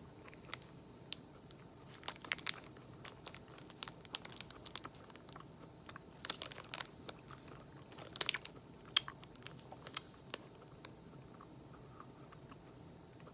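Close-up chewing of a chewy chocolate, nut and seed granola bar: irregular wet, sticky smacks and crunches of nuts and seeds, coming in clusters a few seconds apart.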